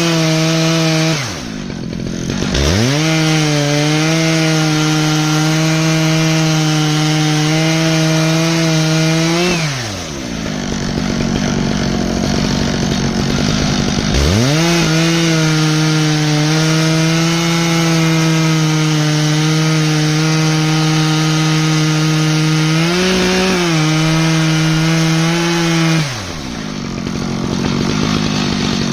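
Stihl MS 881 chainsaw on an Alaskan chainsaw mill running at full throttle while milling an ash log. Its revs fall away about a second in and climb back, drop again near ten seconds and build back up a few seconds later, and fall off once more near the end as the throttle is let off.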